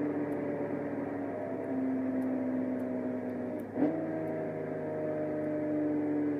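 BMW 1 Series M Coupé's twin-turbo inline-six running under way, its pitch sliding slowly down. About four seconds in there is a sharp click and the pitch steps up at a gear change.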